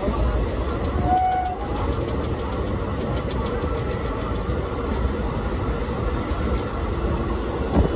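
Passenger train running at speed, with the carriage's steady rumble and rattle on the track. A brief high tone is heard about a second in.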